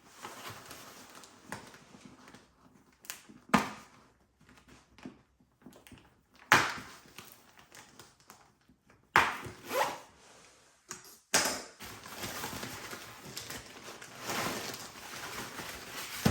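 Packaging being pulled off and unwrapped by hand: irregular rustling, crinkling and tearing of wrapping in short bursts, with a few louder sharp handling sounds and steadier rustling near the end.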